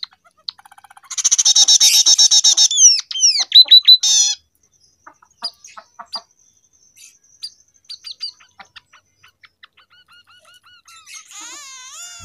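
Scaly-breasted munia (emprit peking) singing a canary-style song: a loud, fast trill about a second in, then a run of quick down-slurred whistles, then scattered single chirps, with another trill starting near the end.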